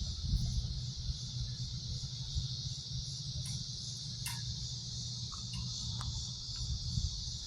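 A steady, high chorus of cicadas buzzing, with a low rumble beneath it.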